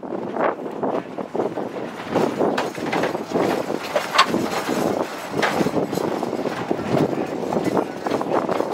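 Narrow-gauge railroad passenger car rolling along the track: wheels and car body give a continuous run of irregular clanks and clicks, with one sharper knock about four seconds in.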